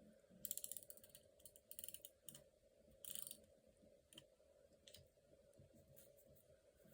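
Faint white-out being applied to paper: three short scratchy strokes with rapid fine clicking, about half a second, two seconds and three seconds in, then a few small clicks.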